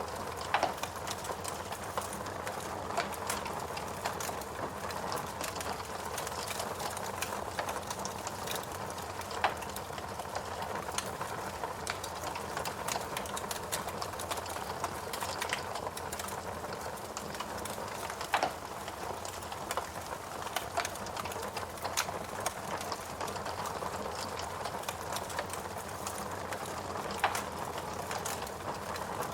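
Wood fire crackling in a fireplace: a steady hiss with frequent small crackles and a few louder pops.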